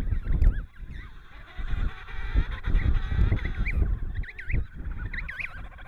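A flock of birds calling together, many short warbling, looping calls overlapping, over a low rumbling noise that swells and fades.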